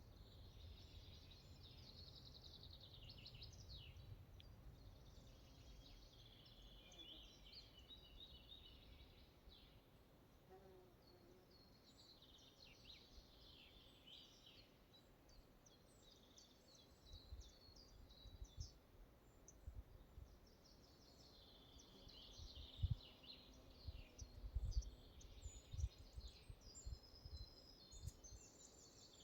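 Faint forest birdsong: several small birds chirping and trilling in short bursts over a low background hiss. In the second half, scattered low thumps and rumbles come in.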